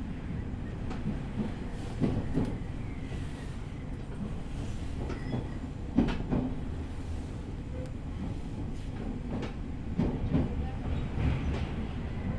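Running noise of a JR East E501 series electric train heard from aboard: a steady low rumble with a sharp wheel knock over a rail joint about every four seconds. The train is running at reduced speed under a strong-wind restriction.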